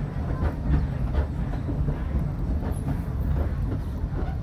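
Small passenger train's open coach rolling slowly on its track: a steady low rumble with irregular wheel clicks and knocks.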